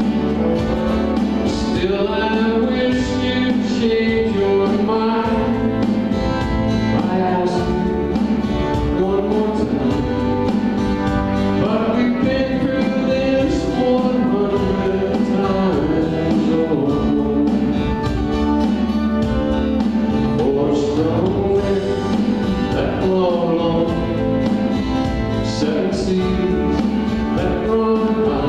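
A live band playing a country-folk ballad, with a singer over acoustic guitar and keyboard.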